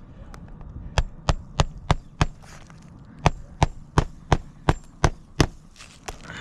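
Hammer striking a roofing nail under a lifted asphalt shingle, driving it flush: a quick run of five blows, a brief pause, then seven more, about three a second.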